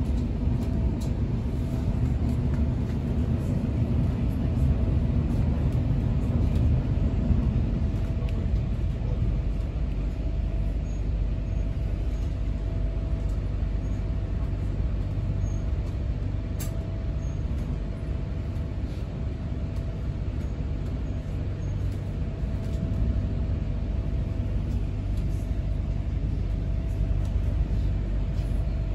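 Electric passenger train running at speed, heard from inside the carriage: a steady low rumble with a faint steady whine above it. The rumble is heavier for the first several seconds as the train crosses a steel bridge, then eases, with a single sharp click a little past the middle.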